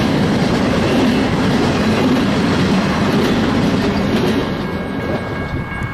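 Empty flatcars at the end of a BNSF freight train rolling past, their wheels running on the rails. The noise falls away about four and a half seconds in as the end of the train goes by, leaving a faint high whine.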